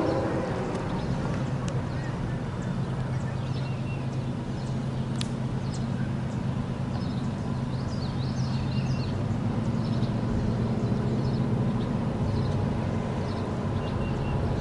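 Diesel locomotive engines running with a low, steady rumble, with birds chirping over it in the second half.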